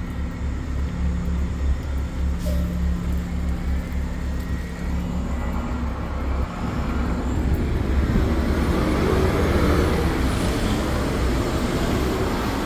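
Road traffic: a steady low engine hum, with a vehicle's rushing noise building about halfway through and loudest near the end.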